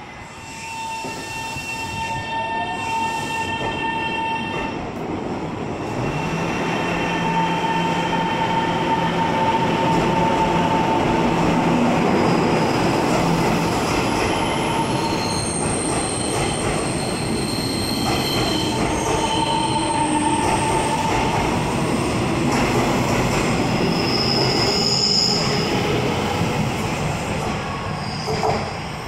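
A Taiwan Railways train running through the station: steady wheel-and-rail noise, with high-pitched wheel squeal tones that come and go over it.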